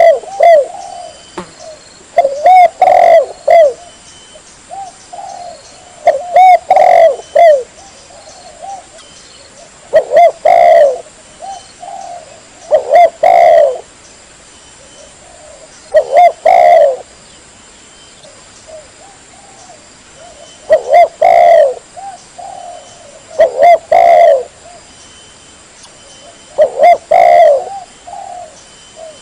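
Spotted dove (tekukur) cooing: a loud call phrase about a second long repeats every three to four seconds, with softer coos in between. It is a lure call for drawing in wild doves.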